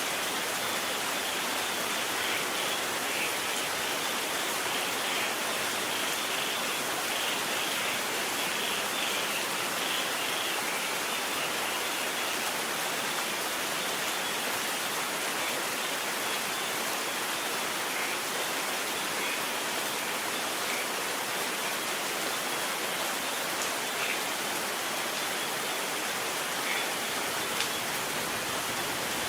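Steady rain falling, an even hiss of water with a few faint drop ticks.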